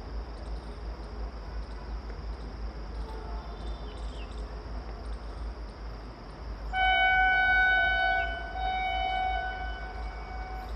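Vande Bharat Express electric train sounding its horn on approach: one long, steady multi-tone blast that begins about two-thirds of the way in, loudest for its first second or so, then holds a little softer. Before it there is only wind rumble on the microphone.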